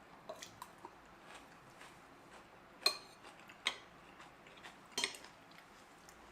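Cutlery and tableware clinking against dishes during a meal: a few light clicks, then three sharper clinks about a second apart in the middle.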